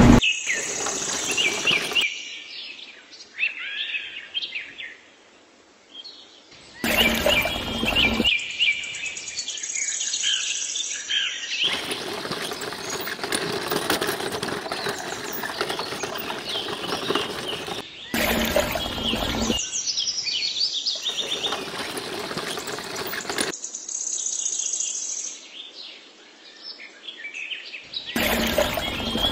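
Birds chirping and singing, with quick repeated calls. Several times the chirps are joined by a few seconds of a steady noise that starts and stops abruptly.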